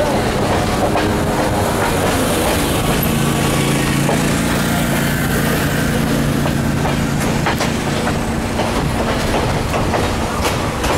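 Boone & Scenic Valley Railroad passenger train running, heard from an open window of its car: a steady rolling rumble of the wheels with scattered sharp clacks over the rail joints, and a low steady hum through the middle.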